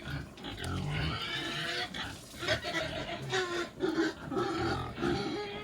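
Pigs squealing and grunting, with a quick run of short grunts in the second half.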